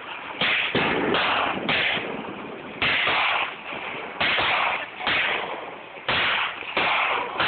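A consumer fireworks cake firing off a run of shots in quick succession: about ten loud, sharp bangs, one every half second to a second or so, each fading out briefly before the next.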